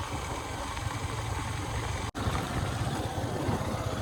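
Vehicle engine and road noise while driving, a steady low rumble with a momentary drop-out a little past halfway.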